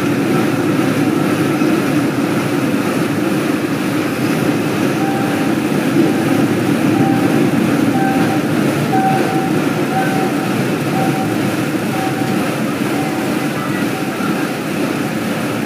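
Train running along the track, heard from aboard: a steady running noise from the train, even throughout.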